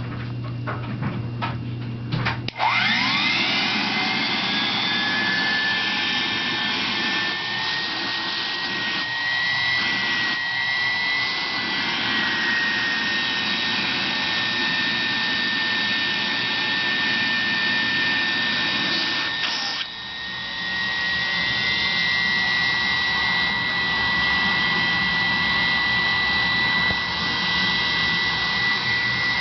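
A 1929 Hoover Duster model 200 suction cleaner's motor switched on about two and a half seconds in, its whine rising quickly and then running steady and high-pitched. A few clicks come before it starts, and the running sound dips briefly about twenty seconds in.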